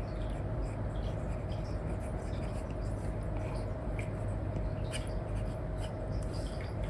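Apple Pencil nib scratching and tapping in short, irregular strokes on a paper-like screen film over an iPad, over a steady low hum.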